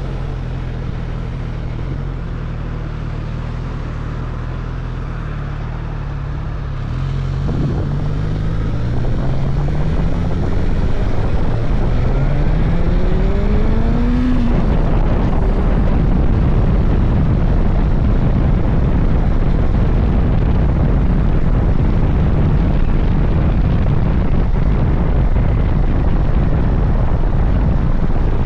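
Suzuki GSX-S1000GT's inline-four engine running steadily at first, then revving up in one long rising pull lasting several seconds. After the pull the engine and wind rush stay loud and steady.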